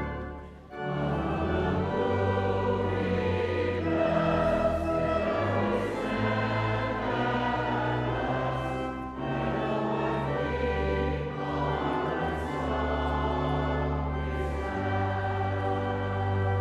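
Choir singing a hymn in verses with organ accompaniment. The music pauses briefly between phrases, about half a second in and again about nine seconds in.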